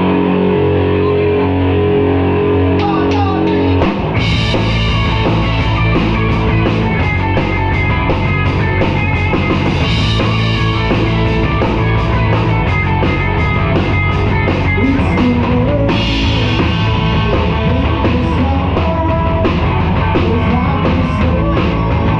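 Live rock band playing a song: a held, sustained instrumental opening, then drums and the full band with electric guitar come in hard about four seconds in and carry on at a driving pace.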